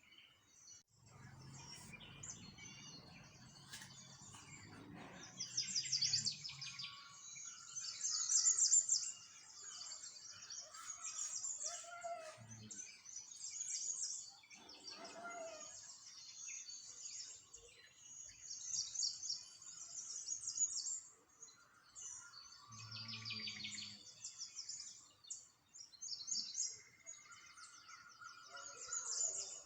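Small songbirds chirping and singing, with many high, quick trills overlapping throughout. A low hum sits under them in the first few seconds and again briefly later.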